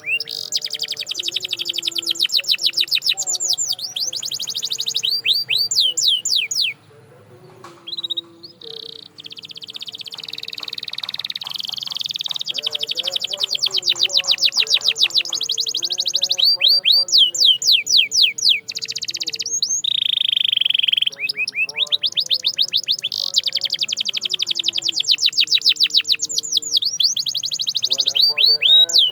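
Domestic canary singing long phrases of fast, rapidly repeated trilled notes, breaking off briefly about seven seconds in and again around twenty seconds. Faint low held notes run underneath.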